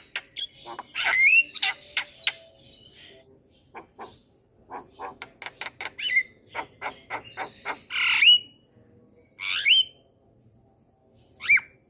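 Javan myna singing a chattering song: sharp clicks in quick runs mixed with harsh squawks and short whistled glides. The loudest call comes about eight seconds in.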